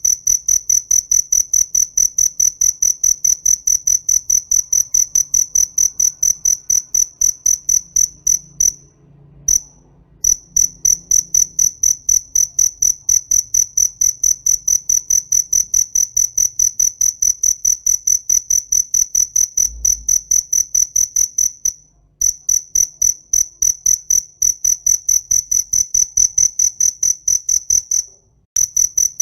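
Cricket chirping loudly in a steady, even rhythm of short high-pitched chirps, about four a second, stopping briefly three times.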